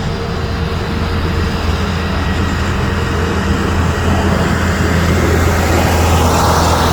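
Airplane landing: a steady low drone and rushing roar that swells over the last couple of seconds.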